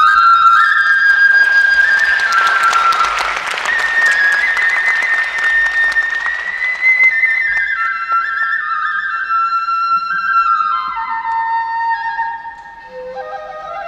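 Kagura bamboo flute playing a stepped melody that slides between held notes, moving lower in the second half. For the first several seconds a dense, noisy clatter plays under it.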